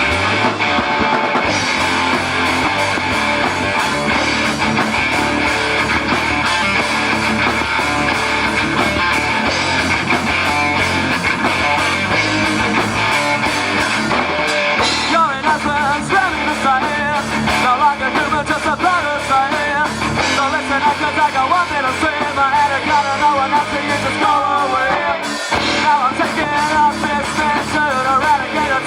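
Live rock band playing loudly, with guitars over bass and drums; about halfway through, a wavering melody line comes in over the band.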